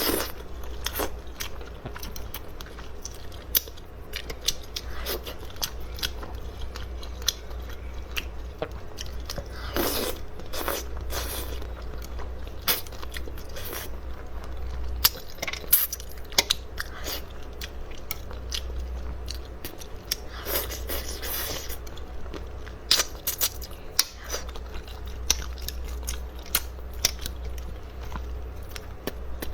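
A person eating close to the microphone, chewing and biting, with frequent sharp irregular crunches and crackles over a steady low hum.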